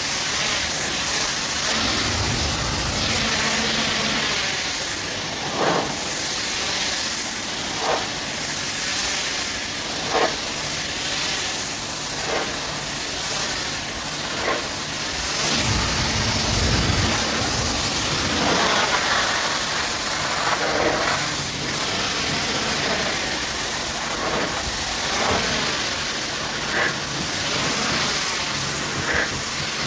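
High-pressure washer spraying water in a steady hiss, with short sharp knocks about every two seconds. A low rumble swells twice, early on and about halfway through.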